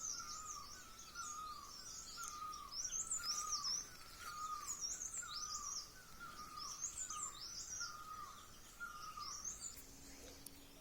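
Birds calling outdoors: one repeats a short falling note about once a second, stopping shortly before the end, while another twitters in quick high phrases above it.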